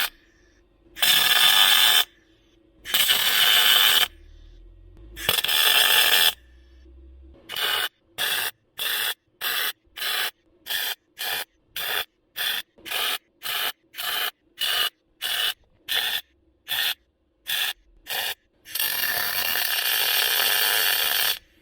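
Welder arcing on a steel rust-repair patch in bursts: three welds of about a second each, then a quick run of about twenty short tacks at roughly two a second, then one longer weld of nearly three seconds near the end. The short bursts are stitch-welding the thin body steel a little at a time.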